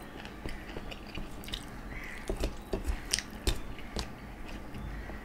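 Close-miked chewing of a mouthful of rice and curry eaten by hand, with scattered short clicks of the mouth, most of them between about two and four seconds in.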